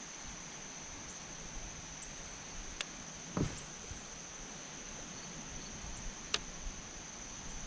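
Steady high-pitched drone of insects. Two sharp clicks and a dull knock about three and a half seconds in stand out above it.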